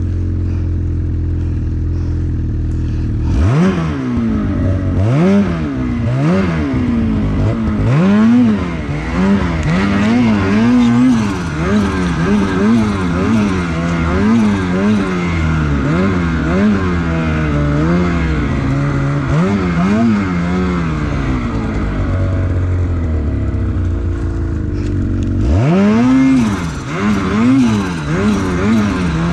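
Lynx Shredder RE snowmobile's two-stroke engine, running low and steady for a few seconds, then revved up and down over and over in quick throttle blips, with a short steadier stretch before another burst of revving near the end.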